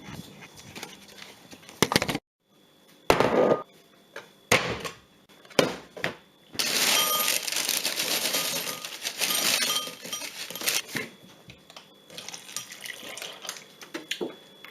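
Breakfast being made: crockery and cutlery clinking and knocking several times, then about four seconds of pouring, then a few lighter clinks.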